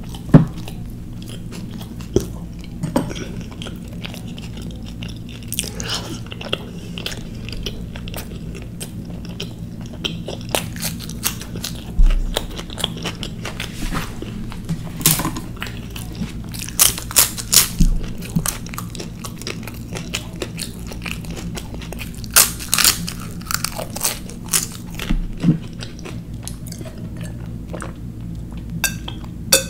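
Close-miked eating: a person biting and chewing butter naan with cumin-spiced potatoes, with scattered sharp mouth clicks and crunches over a steady low hum.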